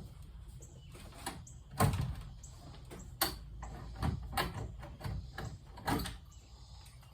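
Irregular sharp clicks and knocks, about eight spread over several seconds, from hands and tools working on a ceiling fan's mounting during disconnection.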